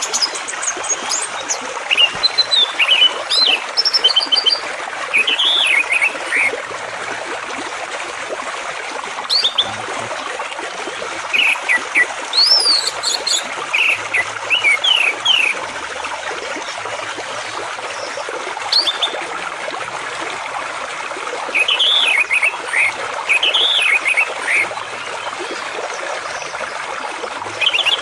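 A songbird singing in bouts of quick chirps that swoop up and down, with pauses of a few seconds between bouts, over the steady rush of flowing water.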